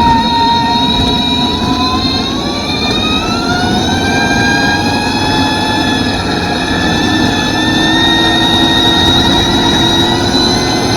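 University of Nottingham electric superbike's motor and drivetrain whining under way, the pitch low just after the start and then climbing over a few seconds before holding high as the bike accelerates, over a steady rush of noise.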